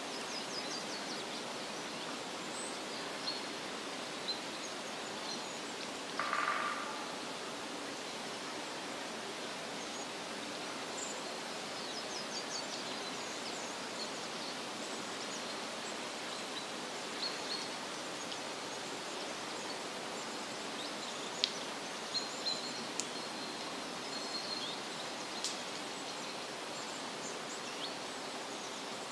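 Forest ambience: a steady rushing hiss with scattered faint, high bird chirps, and one short, lower pulsed call, like a frog's croak, about six seconds in.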